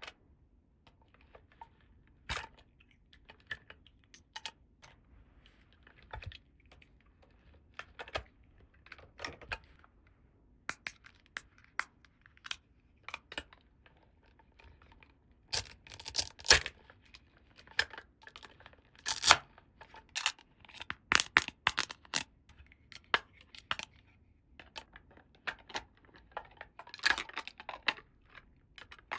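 Small plastic toy pieces and packaging handled by hand: irregular clicks, taps and rustles, with denser, louder clusters around the middle and near the end.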